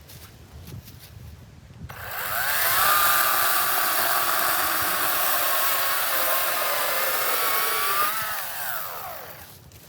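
EGO 56-volt battery chainsaw: its electric motor whines up to speed about two seconds in, runs steadily for about six seconds, then winds down and stops near the end.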